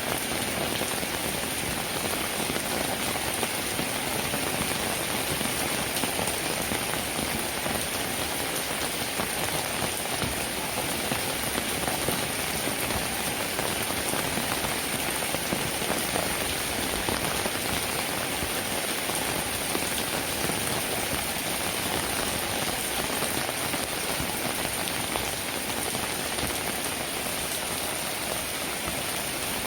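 Steady rainfall: a dense, even patter of raindrops that holds at the same level throughout.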